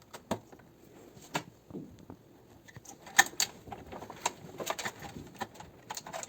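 Scattered clicks and knocks of a washing machine's parts being pulled and wiggled by hand to check for play, sparse at first and coming thicker in the second half.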